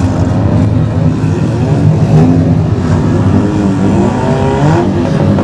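Engines of several banger-racing demolition-derby cars running and revving, several pitches overlapping and rising and falling.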